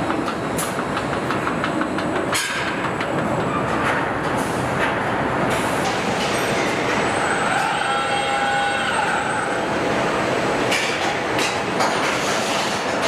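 Truck assembly line noise: a steady mechanical din with scattered clanks and clicks, and a brief pitched whine about eight seconds in.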